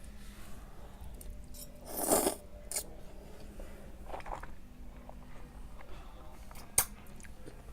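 A person eating spaghetti: close chewing and mouth sounds, with a louder noisy burst about two seconds in and a single sharp clink near the end.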